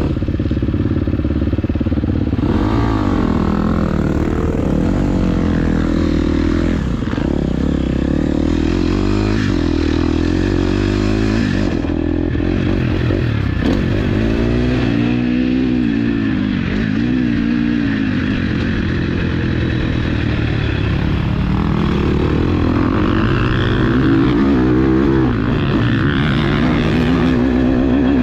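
KTM SX-F 250 four-stroke single-cylinder motocross engine being ridden hard, its pitch climbing and dropping again and again as the throttle is opened and closed through the gears.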